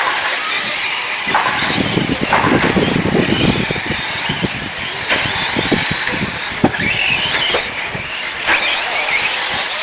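Electric 4x4 RC trucks racing: several motors whine, rising and falling in pitch as they speed up and slow down, over the rattle of tyres and sharp knocks from hits and landings.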